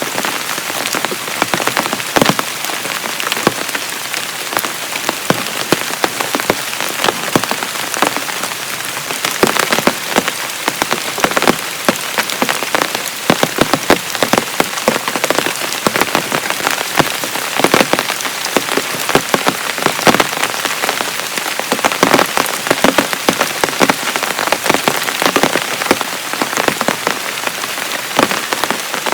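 Heavy rain falling steadily, with a constant hiss and many sharp, close drop impacts pattering on a surface.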